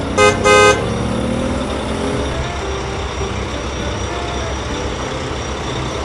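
Cartoon dump truck sound effects: two short horn toots in quick succession, then the truck's engine running steadily.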